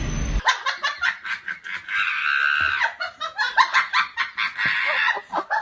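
High-pitched human laughter, a person giggling and laughing in quick short peals.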